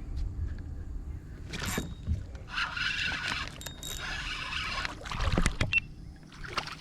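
Water splashing and sloshing around a fishing kayak, with several sharp knocks against the hull, the loudest cluster about five seconds in.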